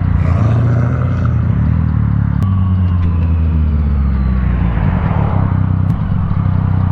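Motorcycle engine running steadily under way, with wind and road noise; the engine note shifts about two and a half seconds in.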